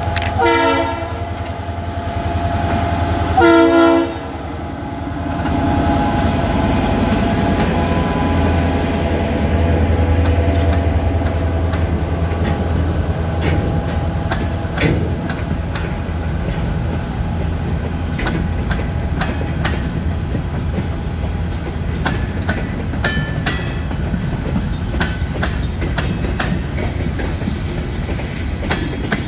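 Norfolk Southern diesel freight locomotive blowing two short horn blasts, one about half a second in and one about three and a half seconds in, then its engine running as it passes. A long string of open-top hopper cars follows, rolling by with a steady rumble and repeated wheel clicks.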